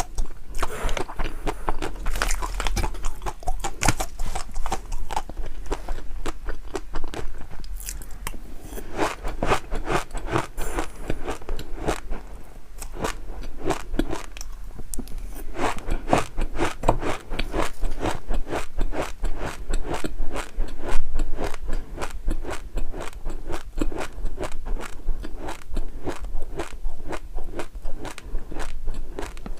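A person chewing crunchy food close to the microphone: rapid, continuous crunching bites with a brief lighter spell about midway.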